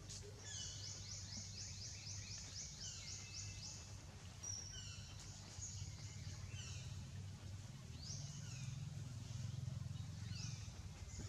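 Outdoor ambience: a steady low rumble under repeated high, falling bird chirps, with a fast run of chirps lasting about three seconds, then single chirps every second or so.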